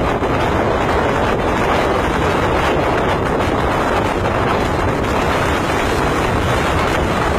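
Strong wind blowing across the microphone: a loud, steady rush of noise with no breaks.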